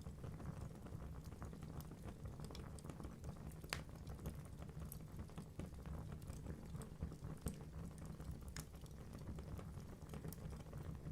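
Wood fire burning in a fireplace: a steady low rumble of flames with irregular crackles and pops from the burning logs, two sharper pops standing out about four and nine seconds in.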